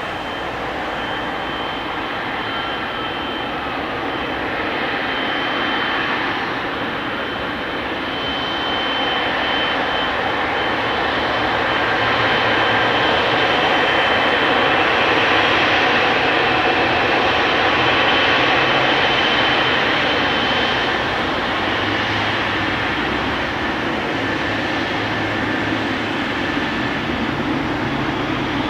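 Jet engines of a Boeing 777-300ER, its GE90-115B turbofans, running with a steady rushing noise and a thin high whine. The sound swells for several seconds near the middle, then eases.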